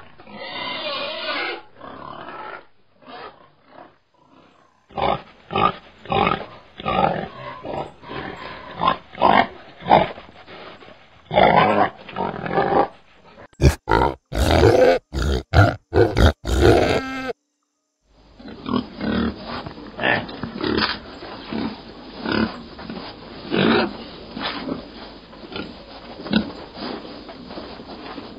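Piglets grunting as they root and feed, in many short calls one after another. About halfway through the calls come thick and fast for a few seconds, then stop for under a second before the grunting resumes.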